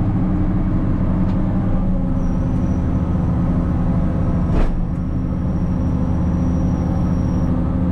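Case 2670 tractor's diesel engine running steadily under load while pulling a disc chisel through rough ground, with a single sharp clunk about halfway through and a thin high whine over the middle stretch.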